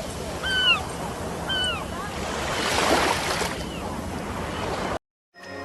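A steady rushing sound like surf, over which a bird gives two arched, ringing calls about a second apart. The rush swells briefly, then everything cuts off suddenly about five seconds in.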